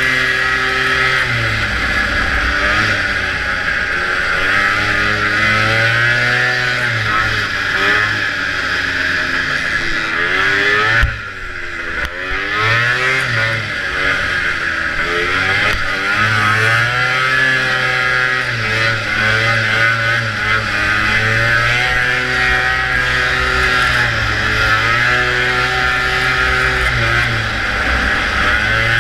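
Vintage two-stroke racing snowmobile engine running hard, its pitch rising and falling as the throttle is opened and eased. There is a sharp knock about eleven seconds in, followed by a brief drop in the engine before it picks back up.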